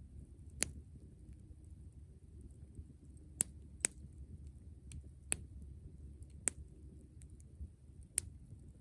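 Wood campfire crackling: sharp single pops at irregular intervals, about six of them, over a low steady rumble.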